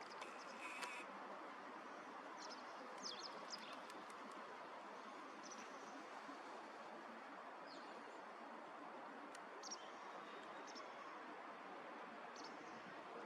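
Faint outdoor ambience: a steady hiss of background noise with short, high chirps of small birds scattered through it.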